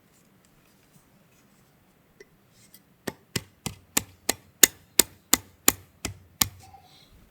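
About eleven sharp wooden knocks, roughly three a second, as a 1x2 wood strip is tapped down snug into the holder of a packable cardboard target stand.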